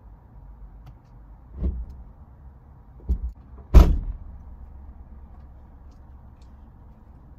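Three heavy thuds about a second apart, the last and loudest a door being shut.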